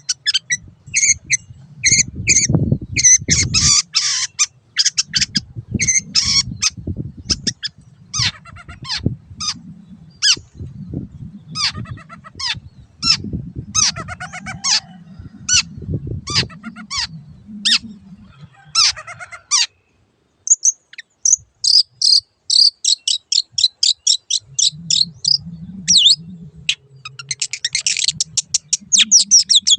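Long-tailed shrike singing: series of short, sharp, harsh notes, breaking near the middle into fast chattering trills that return near the end.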